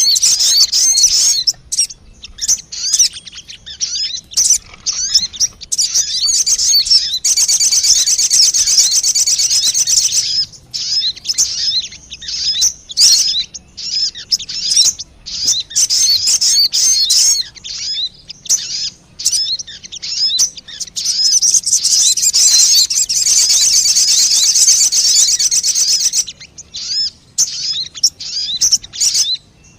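Sogon bird lure call: rapid, high-pitched chirps and twitters, repeated over and over. Two long unbroken runs of dense twittering come about a quarter of the way in and again past two-thirds.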